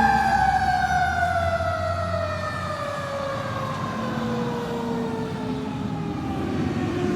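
Fire engine siren winding down: one long tone falling steadily in pitch, with the truck's engine rumbling underneath and growing louder near the end.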